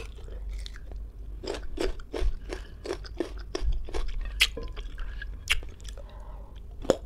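Close-up crunching and chewing of firm green ambarella fruit: a run of irregular crisp crunches, sharpest about four and a half and five and a half seconds in.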